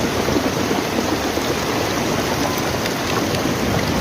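Rain falling steadily in a heavy downpour, a dense even hiss with scattered drop ticks.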